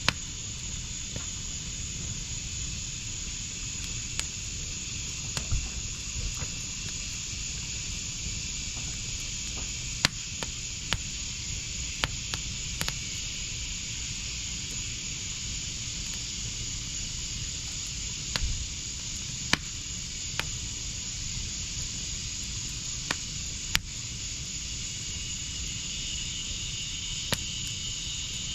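Wood fire burning in a backyard fire pit, with irregular sharp crackles and pops every second or two over a steady hiss. Insects trill steadily behind it.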